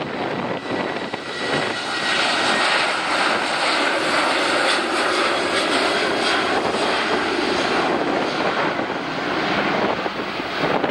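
Boeing 737-700's CFM56-7B turbofan jet engines at takeoff power: a dense rushing roar with faint steady whines that swells about a second or two in, holds, and eases off near the end.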